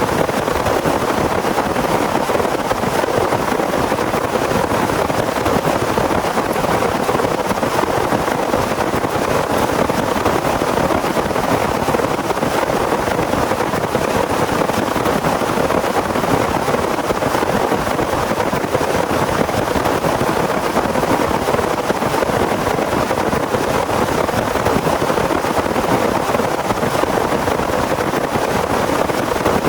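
Heavy rain pouring steadily in a dense, even rush.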